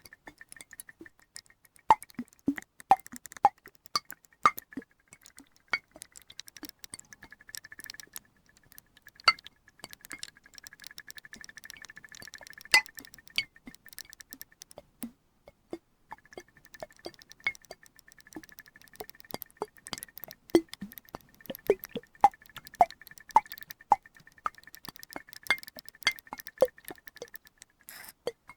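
Water in a glass flask: irregular plinking drops with light glassy clinks, some much louder than others.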